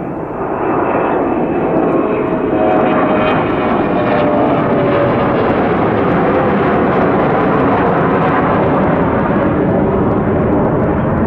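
Boeing 717-200's twin rear-mounted Rolls-Royce BR715 turbofans at takeoff power. The loud, steady jet noise swells over the first second and then holds, with a faint whine running through it.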